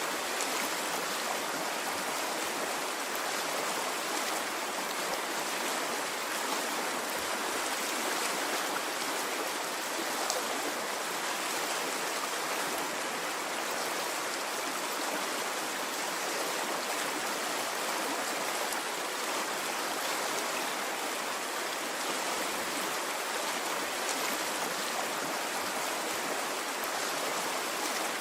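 Stream of water running steadily, an even rushing and babbling with no swells or pauses.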